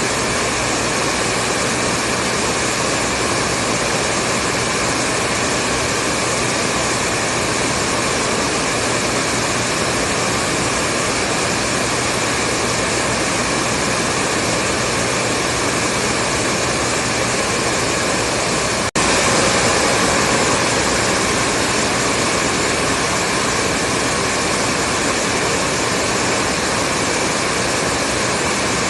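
Hair dryer running steadily: a constant blowing whoosh with a low motor hum. It cuts out for a split second about nineteen seconds in, then carries on.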